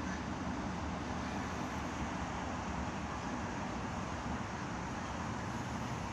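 Steady outdoor background noise, an even rush with no distinct events.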